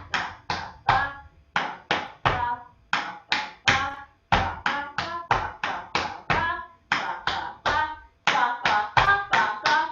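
Tap shoes striking a hard floor in quick rhythmic phrases of Shim Sham steps, about three sharp ringing taps a second, with short breaks between phrases.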